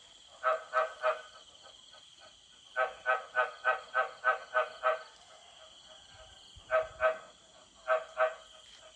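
Frogs croaking in a breeding chorus: loud, short croaks in runs, three together, then a fast run of about eight, then pairs. A steady high-pitched drone of night insects runs underneath.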